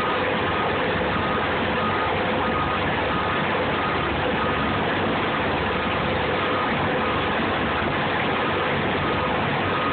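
A truck reversing, its engine running steadily under a reversing beeper that sounds about three times every two seconds.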